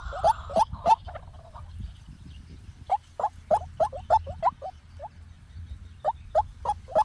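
White-breasted waterhen calling: runs of short, repeated notes, about three a second, with a pause of a second or two between runs.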